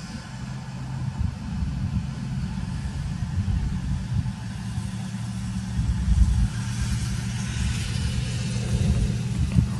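A vehicle engine idling close by as a steady low hum, with gusty wind buffeting the microphone in surges of low rumble.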